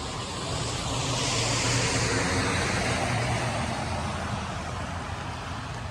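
A car passing on a wet street: tyre hiss and engine rise over about a second and a half, then fade away, the hiss sliding lower in pitch as it goes by.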